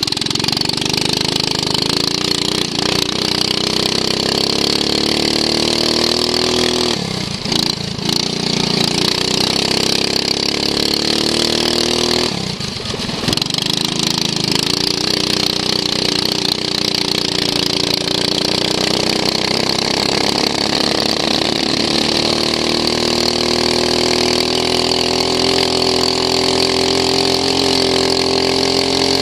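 Racing lawn mower's engine at speed, heard onboard. The engine note drops away briefly twice, about seven and twelve seconds in, then climbs steadily in pitch as the mower accelerates.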